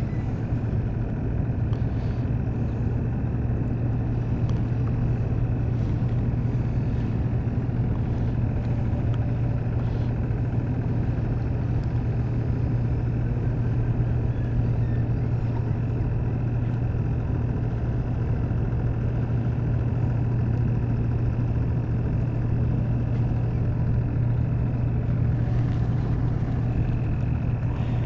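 A motor running steadily: a low hum with a faint high whine over it, and a few light clicks.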